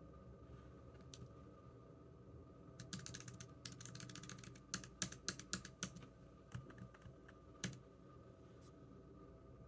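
Typing on a computer keyboard: a quick run of key clicks about three seconds in, then a few louder, separate key strikes that stop about two seconds before the end.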